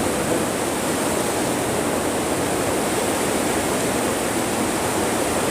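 Heavy rain falling on a high tunnel greenhouse, heard from inside as a steady, dense hiss with no letup.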